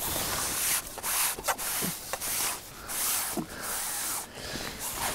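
Rubbing and scraping sounds close by, in a string of short bursts about half a second to a second long.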